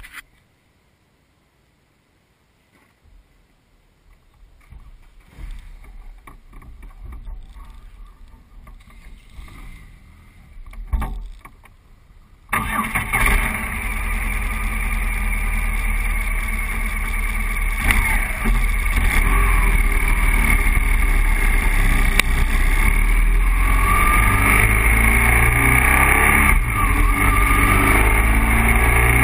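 Faint rustling and small knocks, then about halfway through a BMW 1200 boxer-twin motorcycle engine starts abruptly and keeps running, growing steadily louder as the bike gets under way.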